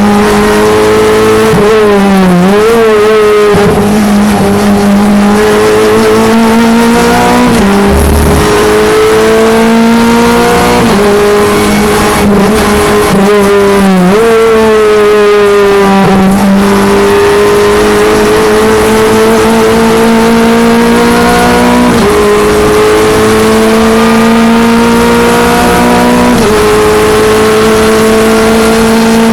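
Clio Cup race car's engine under hard acceleration, its pitch climbing steadily through each gear and dropping sharply at each upshift, a few seconds apart. In places the pitch wavers and falls as it is downshifted under braking.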